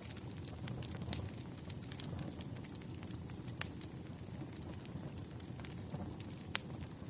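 Wood fire crackling: a steady low rumble of burning logs with scattered sharp pops, the loudest about three and a half and six and a half seconds in.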